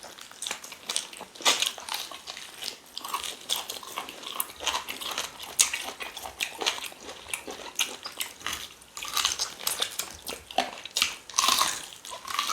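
Close-miked eating of cow tail pepper soup: repeated biting, chewing and crunching of the meat on the tail bones, heard as quick, irregular mouth clicks and smacks.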